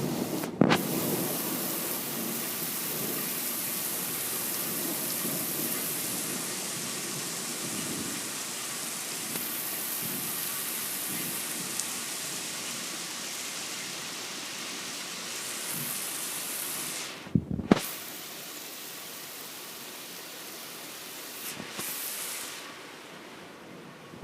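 Steady heavy rain of a thunderstorm, with the tail of a low thunder rumble fading in the first seconds. The sound briefly cuts out with a couple of knocks about two-thirds of the way through, then the rain goes on, a little softer.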